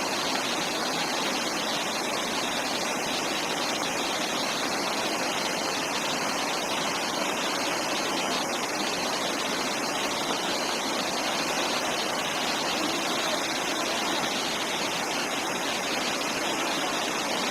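Steady, unbroken rush of water, even in level throughout, with no distinct splashes or knocks.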